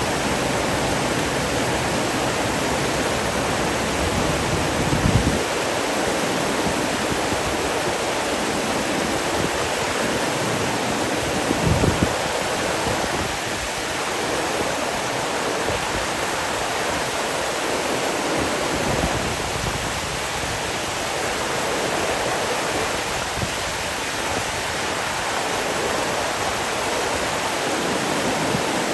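Steady rush of flowing water, an even hiss with no let-up, with two brief low rumbles about five and twelve seconds in.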